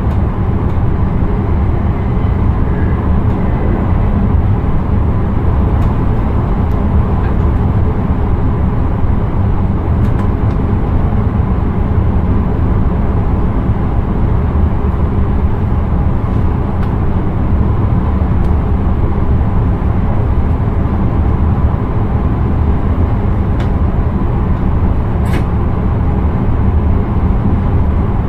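Intercity train running steadily, heard from the driver's cab: an even rumble and rail noise, with a few faint clicks.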